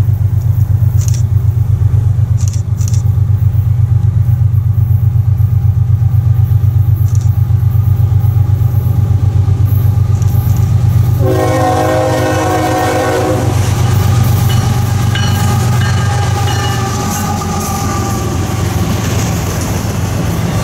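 Diesel freight locomotive passing close, its engine throbbing loud and low, then a horn blast of about two seconds starting about eleven seconds in. Autorack freight cars then roll past with a steady rumble and clatter.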